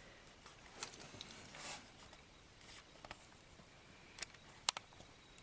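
Light handling noises from die-cast model airplanes being picked up and shown: a soft rustle about a second in, then several sharp little clicks near the end.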